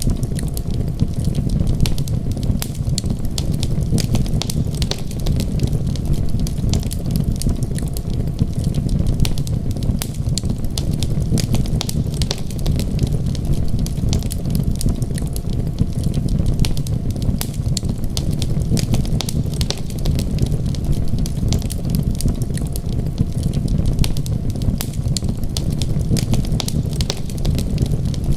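Wood fire crackling, with frequent short sharp pops over a steady low rumble.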